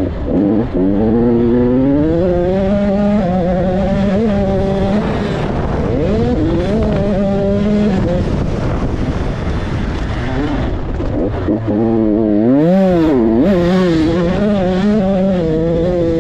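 Motocross bike engine running hard around a track, its pitch rising and falling with the throttle and gear changes. About twelve seconds in it drops away sharply, then climbs again.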